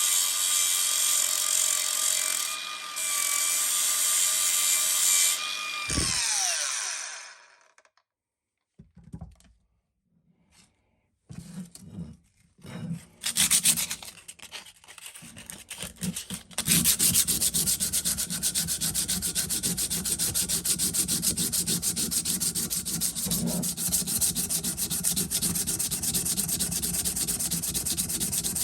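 A power tool running with a steady whine, switched off and spinning down about six seconds in. After a short quiet stretch with a few knocks and handling sounds, steady abrasive rubbing, like sanding, takes up the rest.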